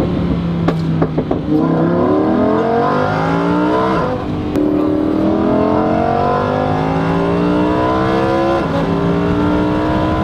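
Lamborghini Huracán Performante's naturally aspirated V10, through a Fi cat-back valved exhaust, heard from inside the cabin under hard acceleration. The revs climb steadily, drop at an upshift about four seconds in, climb again, and drop at a second upshift near the end. A few sharp cracks come about a second in.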